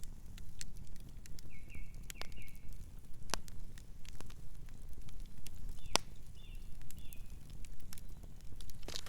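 Campfire crackling: irregular sharp pops and snaps, a few much louder than the rest, over a steady low rumble. Short high chirps come in small groups about a second and a half in and again about six and a half seconds in.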